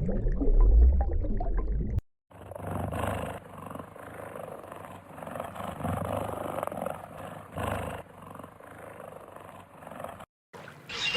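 Deep animal growling for the first two seconds, cut off suddenly. It is followed by a quieter stretch of steady rustling background noise that swells several times.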